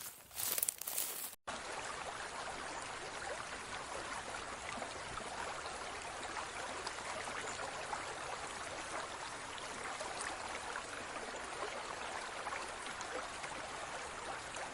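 Steady, even water noise with a fine crackle and no change in level. It begins abruptly after a short rustle at the start.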